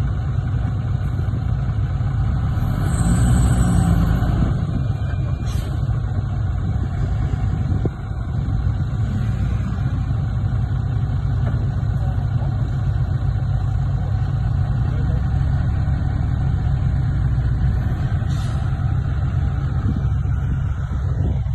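Heavy construction machine's diesel engine running steadily, with a brief swell in loudness about three seconds in.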